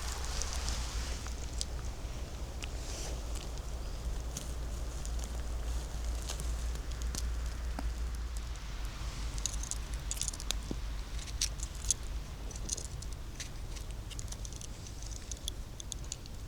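Footsteps on a forest floor, leaves and small twigs crackling underfoot in many scattered light clicks, over a steady low rumble.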